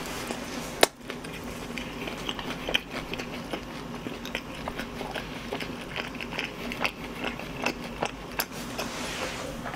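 A man chewing a mouthful of fried chicken close to the microphone, lips closed, making many small clicks and smacks, with one sharper click about a second in.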